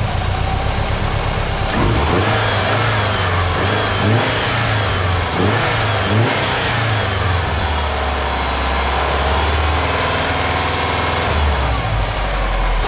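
Subaru 2.5-litre flat-four engine held at raised revs with several quick blips of the throttle, then settling to a lower speed about eight seconds in, with one more short blip near the end. It is kept revved to stop it stalling while upper engine cleaner is sprayed into the intake manifold.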